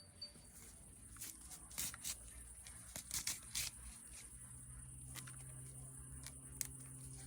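Mint stems and leaves being harvested: a series of short, crisp snaps and tearing rustles, in clusters around two and three seconds in and once more near the end.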